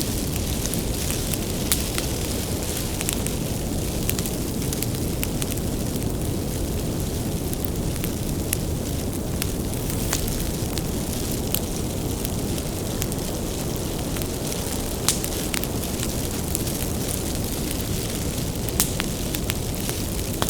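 Wood fire burning steadily: a low roar of flames with irregular crackles and sharp pops from the burning firewood, a few pops louder than the rest.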